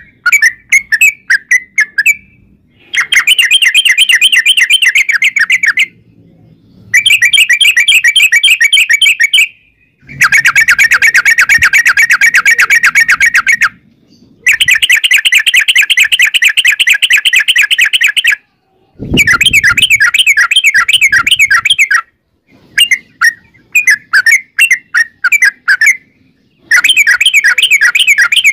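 Yellow-vented bulbul (trucukan) song: long, rapid rolling runs of bubbly notes, each lasting three to four seconds with short breaks between, turning into shorter choppy phrases near the end.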